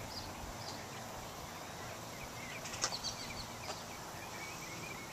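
Outdoor background hiss with faint, short bird chirps now and then, and one light click a little before three seconds in.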